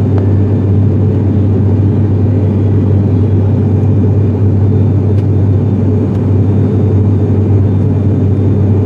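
ATR 72-500 turboprop's engines and propellers running at steady power: a loud, even drone with a deep hum.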